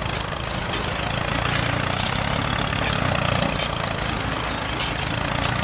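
Mini tractor engine running steadily with an even hum.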